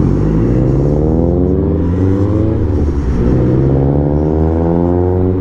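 Motorcycle with a Yoshimura slip-on exhaust and the car just ahead accelerating together. The engine pitch climbs for about two and a half seconds, drops at a gear change, then climbs again.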